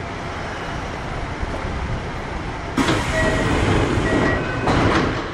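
Kintetsu 1021 series train heard from inside the car: a steady low rumble, then about three seconds in a sudden louder hiss with a few short steady tones, swelling again near the end.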